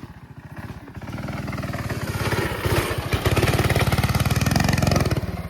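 Coleman mini bike's small single-cylinder four-stroke engine running at a low idle, then revving up about a second in and again about halfway, held at higher speed before easing off near the end.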